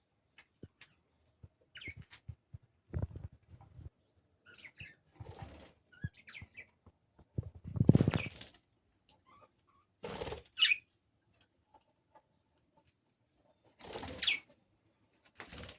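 Lovebirds scuffling in a fight: short flurries of wing flapping and scrabbling, broken by brief shrill chirps and small taps. The loudest flurry comes about halfway through.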